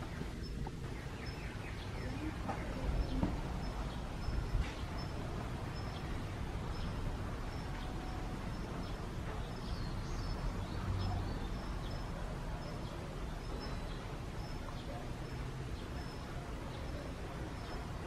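A small bird calling with a short, high, single note repeated at an even pace, about once or twice a second, over a steady low outdoor rumble. Two dull bumps come about three and four and a half seconds in.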